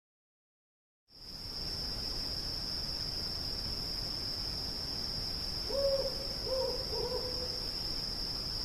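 Night ambience: a steady high insect chirring, crickets, starts after about a second of silence. An owl hoots three times a little past the middle.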